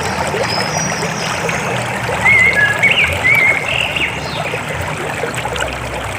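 River water flowing steadily, with a bird chirping over it: a short run of warbling calls about two seconds in and a few high thin whistles.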